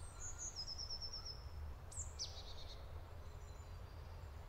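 Faint birdsong: a short run of quick high notes about half a second in, then a high falling call about two seconds in, over a steady low rumble.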